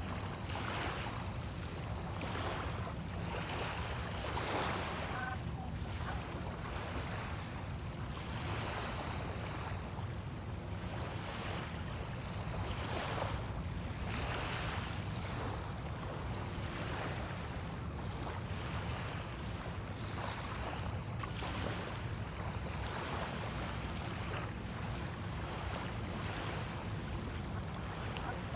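Small waves washing onto a sandy bay shore, one swell of surf after another every second or two, over a steady low rumble of wind on the microphone.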